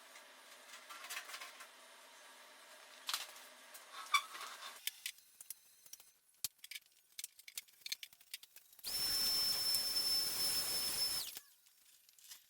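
Workshop handling knocks and clicks, then a power tool running for about two and a half seconds with a steady high whine over a harsh rushing noise, starting and stopping abruptly.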